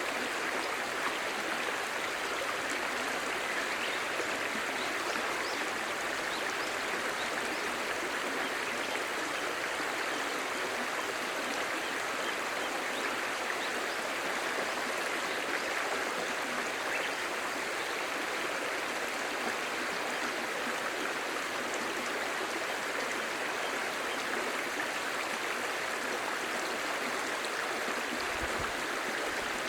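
Clear stream babbling steadily over rocks, a continuous rushing and splashing of flowing water.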